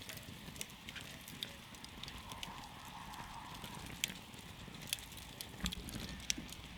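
Wood campfire crackling, with irregular sharp pops and snaps over a low steady rush.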